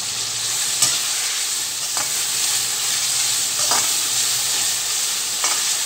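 Chopped onions and tomatoes sizzling steadily in hot oil in a wok, stirred with a slotted metal spatula that clicks and scrapes against the pan a few times.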